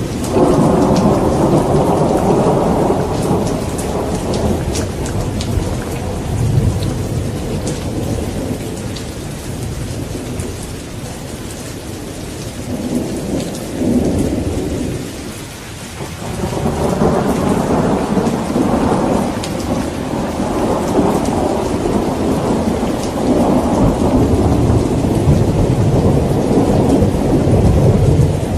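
Thunderstorm: steady rain hissing, with long rolls of thunder. One rumble dies away by about the middle, and a second builds a little past halfway and keeps rolling.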